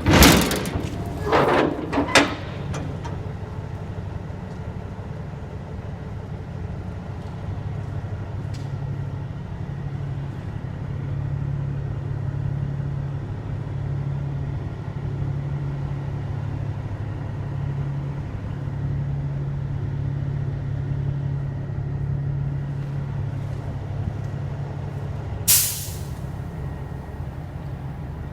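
Cummins 400 inline-six diesel of a 1984 International S2200 truck idling steadily. A few loud bursts of noise come in the first two seconds, and a short, sharp air-brake hiss about 25 seconds in.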